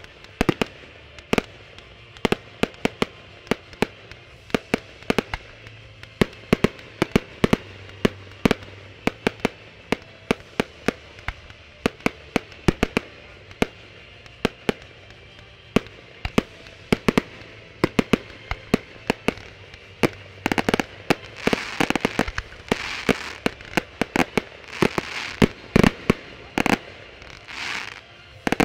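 Fireworks display: a rapid, irregular series of sharp bangs as shells and comets go off, several a second. In the last several seconds hissing, crackling bursts join the bangs.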